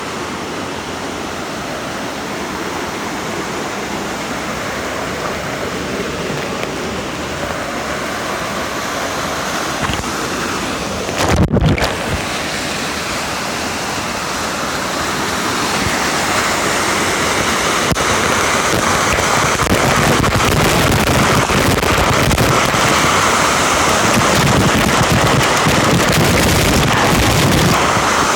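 Waterfall rushing steadily, a constant roar of falling water that grows a little louder in the second half. About eleven seconds in there is a brief low buffet on the microphone.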